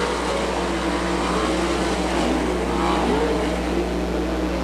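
A pack of winged dirt-track sprint cars at full throttle just after a green-flag restart. Several engines are heard at once, their pitches rising and falling as they power through the turns. A steady low electrical hum sits underneath.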